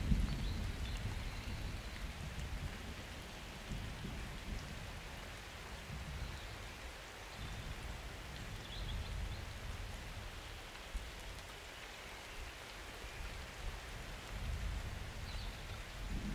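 Steady summer rain falling, with distant thunder. A roll of thunder dies away over the first couple of seconds, and another low rumble builds near the end.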